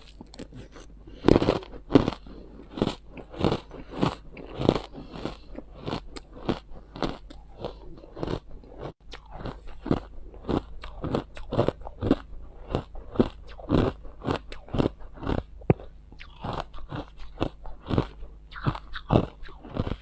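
Ice being bitten and chewed close to the microphone: a continuous run of sharp crunches, about two to three a second.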